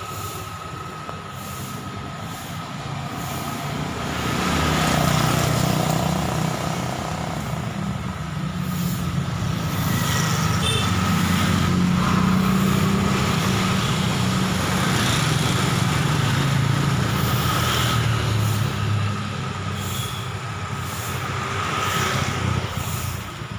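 Road traffic: motor vehicles passing, with a heavy engine rumble that swells about four seconds in, holds, and fades toward the end, under a steady thin high tone.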